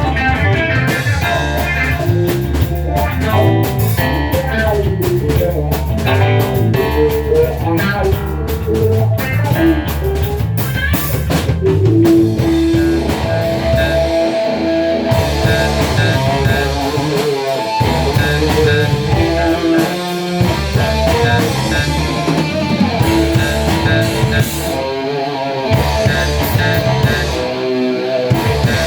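A small band playing a rock/blues song on guitar and drum kit, with busy drumming and cymbal hits for the first twelve seconds or so, then longer held notes with sparser drumming.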